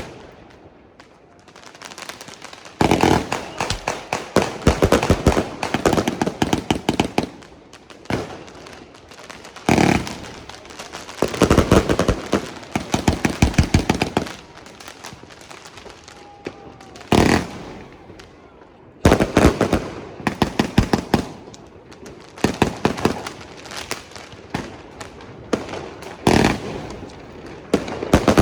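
Fireworks going off: rapid strings of sharp bangs and crackles in several bursts of a few seconds each, with quieter stretches between.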